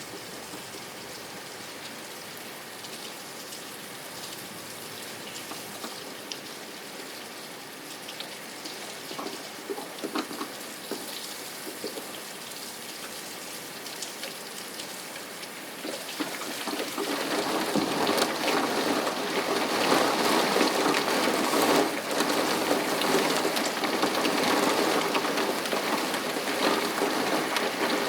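Rain falling, with scattered drops ticking on a surface; from about halfway through it comes down much harder and louder.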